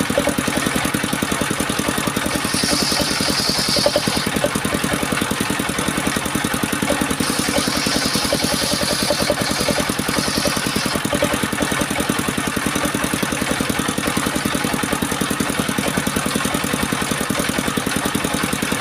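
Engine powering a homemade circular saw rig, running at a steady speed with a rapid, even firing beat. Three times, about three, eight and ten seconds in, a higher-pitched hiss rises over it for a second or two.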